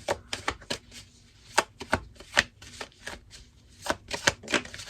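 A tarot deck being shuffled by hand: a quick, uneven run of short card slaps and snaps, a few of them sharper and louder than the rest.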